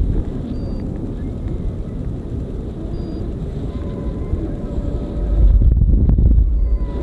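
Strong wind buffeting the microphone with a low rumble, gusting louder for about a second past the middle. A faint thin whine sits under it in the second half.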